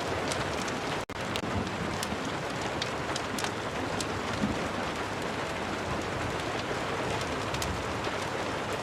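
Steady rain ambience mixed with a crackling fire: an even hiss with scattered sharp pops. It cuts out for an instant about a second in.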